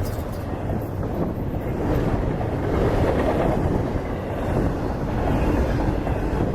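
Freight train passing on the track, a steady rolling noise.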